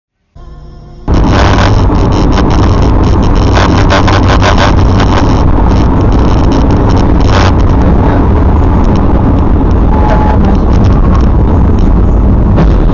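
Loud, steady vehicle driving noise, a dense rumble with a strong low end, setting in sharply about a second in. Many sharp knocks and clicks run through the first half.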